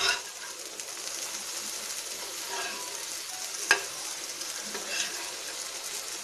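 Boiled egg slices and masala sizzling in oil on a dosa tawa, with a steel spatula scraping and clicking against the pan as they are turned. One sharp clink about three and a half seconds in is the loudest sound.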